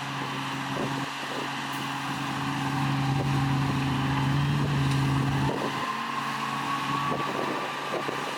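Heavy diesel engine of an earthmoving machine running steadily. It builds up in the middle and eases off about five seconds in, followed by a faint rising whine.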